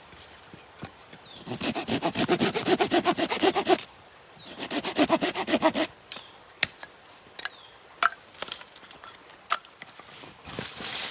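Hand saw cutting wood in two bouts of fast, even back-and-forth strokes, followed by a few scattered sharp knocks and clicks.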